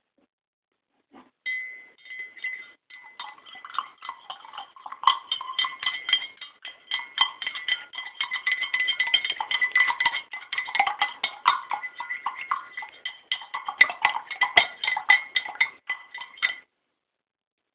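Rapid, irregular clinking and rattling with a steady ringing tone underneath, starting about a second and a half in and stopping suddenly near the end.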